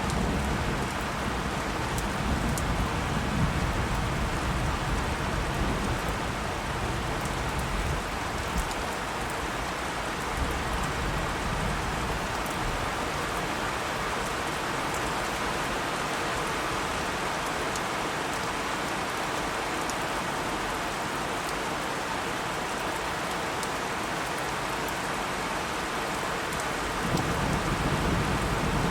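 Steady rain falling on a surface, an even hiss with scattered drop ticks. Low thunder rumbles through the first several seconds, dies away, then starts building again near the end.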